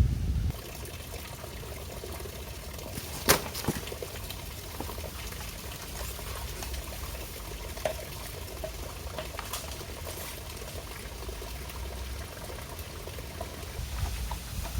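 Stream water trickling and pouring steadily, with a sharp click about three seconds in and a few fainter ones later.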